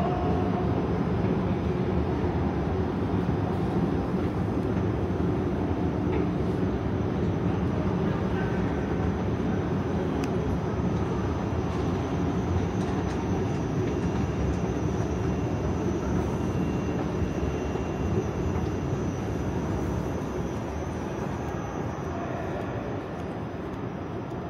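A passing train: a steady low noise that fades away over the last few seconds.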